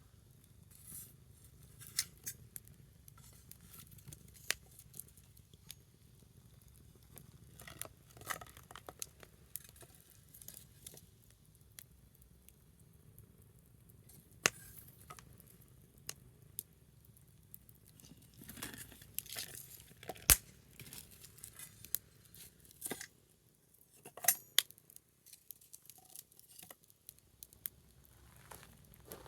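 Small wood fire crackling: sparse sharp pops and snaps, coming more thickly a little past the middle.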